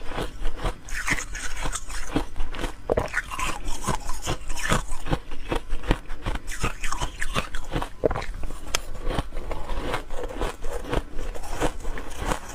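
A person biting and chewing ice, an irregular run of sharp, crisp crunches, several a second, close to the microphone.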